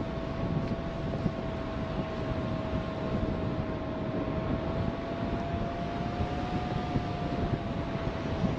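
Strong wind rushing over the microphone during a paraglider flight, with a faint steady whine of slightly wavering pitch underneath.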